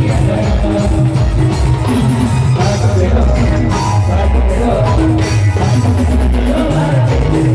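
Loud amplified procession band music: singing over drums, a repeating keyboard figure and heavy bass.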